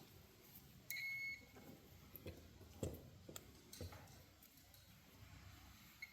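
Multimeter continuity beep, a short high tone about a second in, as the probes touch a cord wire and its plug terminal and show they are connected. A few faint clicks follow from the probes being handled.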